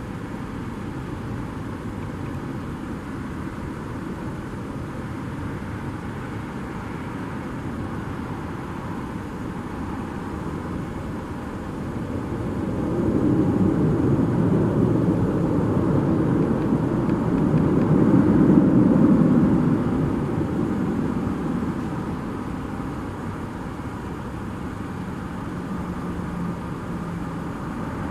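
Jet airliner passing: a steady low engine noise swells about halfway through, peaks near two-thirds of the way in, then fades back to the background hum.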